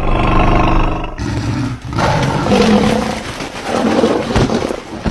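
A large wild animal roaring in deep, rough roars, one after another.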